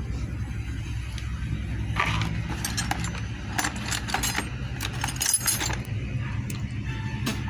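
Metal tools and engine parts clinking and tapping in a series of sharp knocks, over a steady low background bed.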